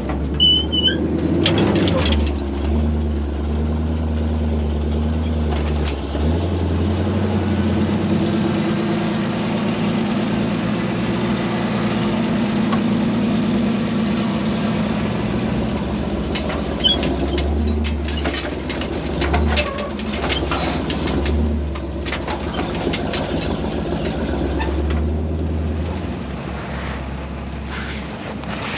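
Off-road vehicle engine running steadily while driving, heard from inside the cab. Short clicks and knocks of the vehicle rattling over bumps come shortly after the start and again for a stretch past the middle.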